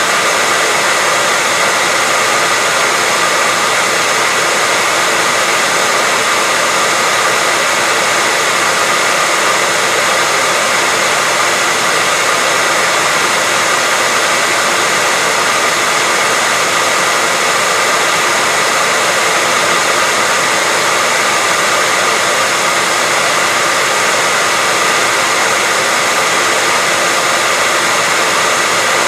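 Hair dryer running steadily: a constant rush of blowing air with a steady high whine in it, kept on without change as white noise.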